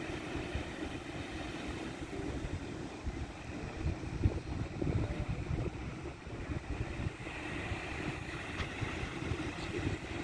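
Wind buffeting the microphone in irregular low rumbling gusts over a steady rushing background.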